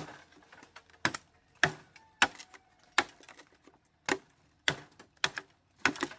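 A tool striking bamboo in a run of about nine sharp, separate blows, roughly one every half second to second, as in chopping or knocking bamboo while building a shelter.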